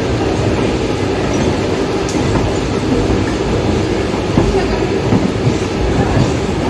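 Mumbai suburban local train running at speed: a steady loud rumble with irregular clacks and knocks from the wheels over the rails.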